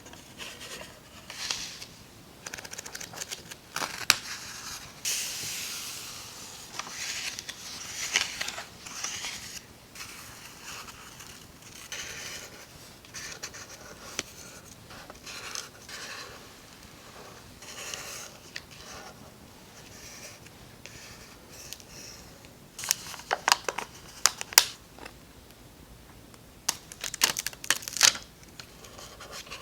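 Paper and sticker handling for journal collage: intermittent rustling, tearing and scraping of paper, with runs of sharp clicks and snips in the last few seconds.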